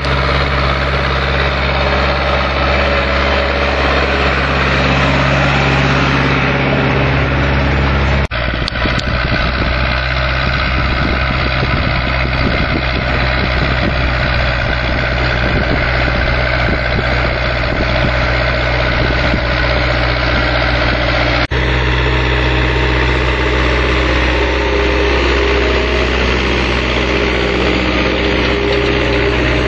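Heavy farm diesel engines running steadily, a low rumble under a noisy mechanical clatter. The sound changes abruptly about 8 seconds in and again about 21 seconds in, as if three different machines were joined.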